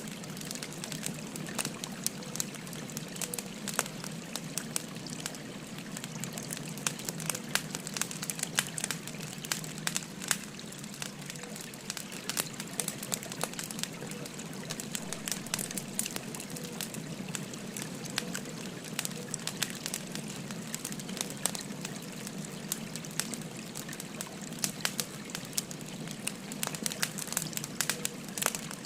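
Firewood fire crackling, with frequent sharp pops and snaps, over the steady rush of a gently flowing river.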